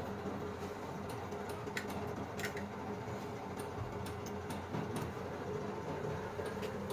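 Steady workshop hum of a running machine, with scattered light clicks and ticks.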